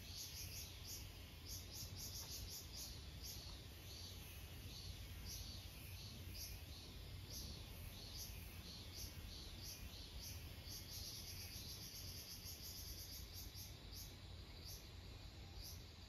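Faint, high-pitched chirping of small birds: many short falling notes, quickening into a rapid trill about eleven seconds in, over a low steady rumble.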